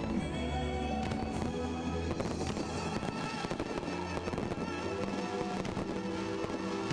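Fireworks going off in rapid bangs and crackles, playing together with music that holds steady notes.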